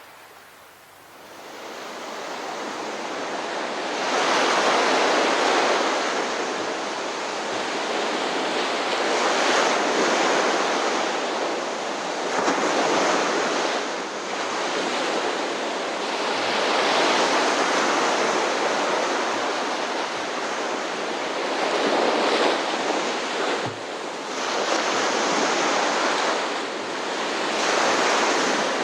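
Ocean surf: waves breaking and washing in, a steady rush that swells and eases every few seconds. It fades in over the first few seconds.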